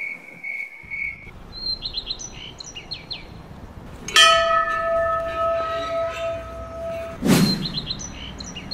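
Birds chirping in short bursts, twice, with a long steady pitched tone held for about three seconds in the middle and a brief whoosh near the end.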